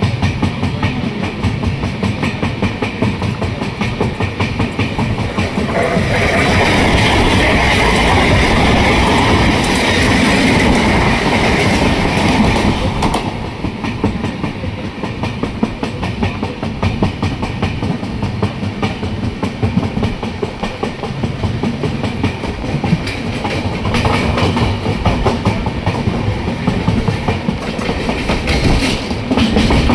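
Electric suburban train running on its track, heard from inside a carriage at an open window: a steady rumble with the rapid clatter of wheels over the rails. It grows louder and brighter for a stretch from about six to twelve seconds in.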